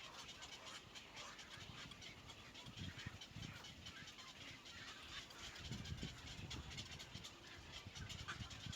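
Doves at a nest during feeding: soft bird calls over many small scratches and rustles, with a few low bursts about three and six seconds in.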